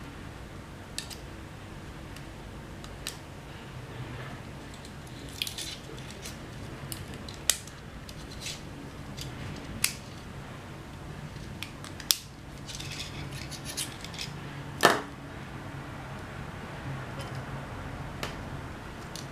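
Scattered light clicks and taps of small tools and plastic parts being handled during a drone repair, the loudest a sharp click about fifteen seconds in, over a faint steady low hum.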